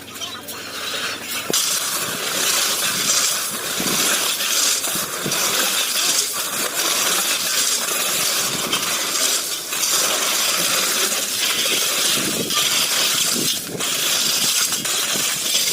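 Stones clattering and clinking against one another as they are unloaded from a truck: a dense, continuous run of sharp clinks and knocks.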